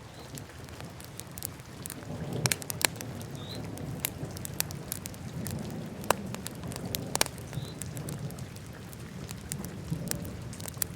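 Wood fire burning in a fireplace, crackling with irregular sharp snaps and a few louder pops over a steady low rumble.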